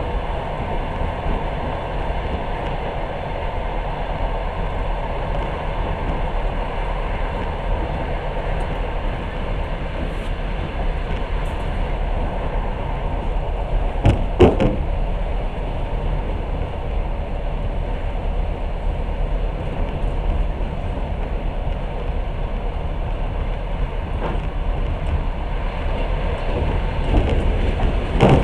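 Passenger train carriage running along the line, heard from inside: a steady low rumble of wheels and running gear, with a cluster of sharp knocks about halfway through and another near the end.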